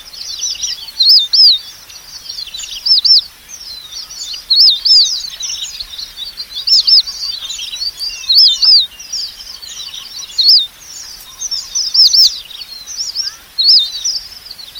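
Red avadavats (red munias) calling: high, thin arched notes in quick pairs and triplets, repeated every second or two, over steady twittering chirps.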